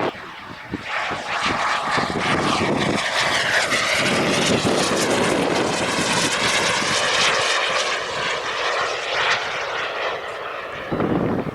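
A radio-controlled model airplane flying past, its engine note bending in pitch as it goes by.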